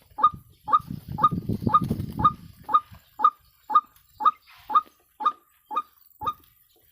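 White-breasted waterhen (ruak-ruak) calling: a rapid, even series of short, sharp notes, about two a second, stopping shortly before the end. A low rumbling noise runs under the first few calls.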